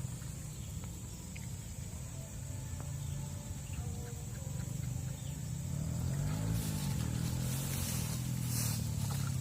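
An engine running, its low hum growing louder over the second half, with a brief rise and fall in pitch about six seconds in. A steady thin high whine runs under it.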